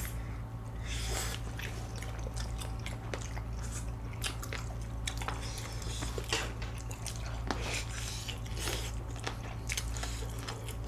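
Close-miked chewing, biting and lip-smacking of two people eating chicken pieces and other Korean dishes: irregular wet clicks and smacks. A steady low hum runs underneath.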